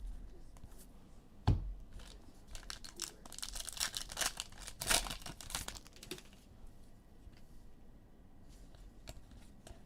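A sharp knock about one and a half seconds in, then a trading-card pack wrapper being torn open and crinkled for a few seconds, loudest about five seconds in, before it settles to faint handling.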